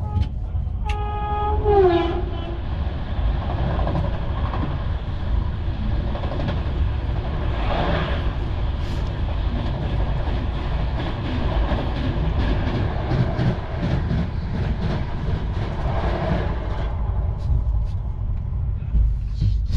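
Steady rumble of a moving Indian Railways express, heard from inside the coach. About a second in, a train horn sounds briefly and its pitch drops near the end. From about eight seconds in, a train passes close on the next track, its wheels clattering rapidly on the rail joints for several seconds.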